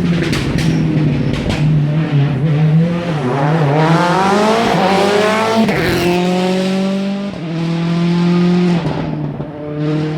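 A World Rally Car engine at high revs on a special stage: its pitch climbs steadily for a couple of seconds under full throttle, then drops sharply at an upshift past the middle, with more gear changes after. A few sharp cracks come about half a second in.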